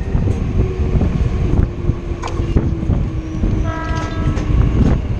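Steady rumble and rushing wind noise from a moving suburban electric local train, heard from outside the coach, with a few sharp rail-joint clicks. A short horn note sounds about four seconds in.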